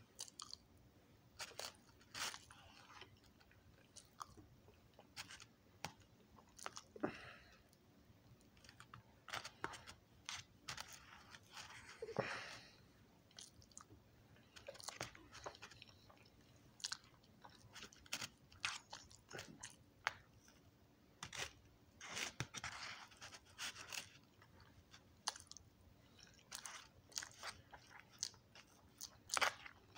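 A person chewing food close to the microphone, with irregular short clicks and mouth noises coming in uneven clusters.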